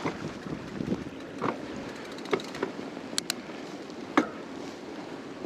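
Fat bike riding over a snowy trail: a steady rush of tyre and wind noise, broken by about half a dozen sharp knocks and clicks as the bike jolts over bumps.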